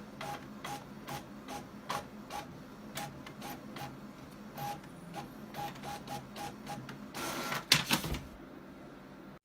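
Rhythmic mechanical clicking, about two to three clicks a second, each with a brief tone, ending in a louder cluster of rattling clicks near the end.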